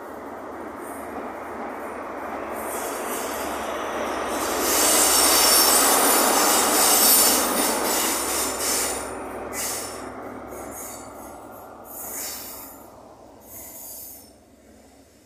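A train passing close by on the rails, its rumble building to its loudest about five to eight seconds in and then fading away. High-pitched wheel squeal comes and goes over the loudest part and again near the end.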